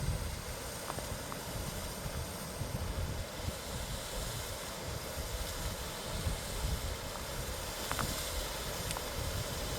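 Steady rushing of a waterfall, with low uneven rumbling from wind on the smartphone microphone.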